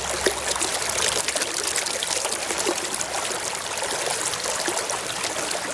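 Running water trickling and splashing steadily over a small toy motorbike as it is rinsed clean of soil.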